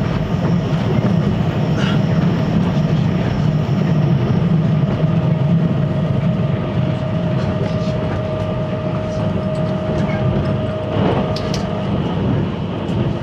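A 583 series electric multiple unit heard from inside a carriage while running: a steady rumble of wheels on rail, with clickety-clack over rail joints and a faint steady whine through the middle.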